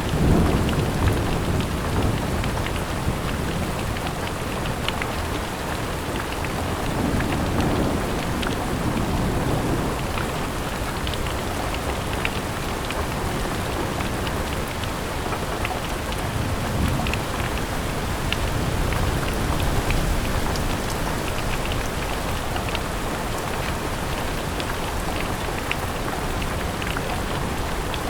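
Steady rain falling against a window, with scattered sharper drop ticks. Low rumbles swell and fade a few times underneath: near the start, about a quarter of the way through and just past halfway.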